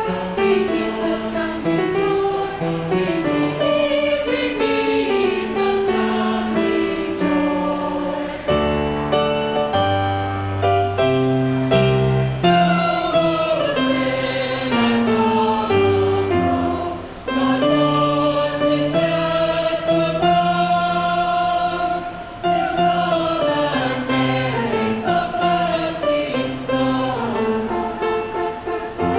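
A chamber choir singing a Christmas piece in several-part harmony, with long held chords.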